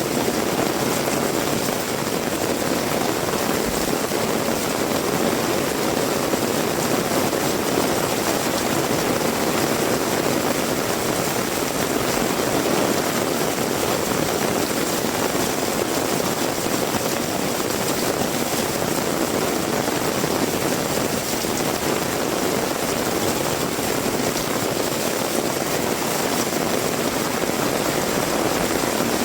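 Heavy rain falling, a dense, steady hiss that does not let up.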